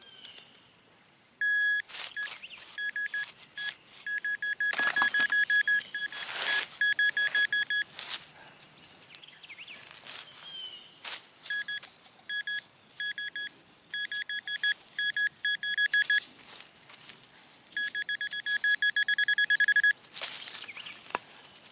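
Metal detector giving rapid electronic beeps at a single high pitch, in runs that start and stop and run together into an almost steady tone near the end, as a buried coin target (a quarter) is pinpointed. Scrapes and knocks of digging in the soil come in between.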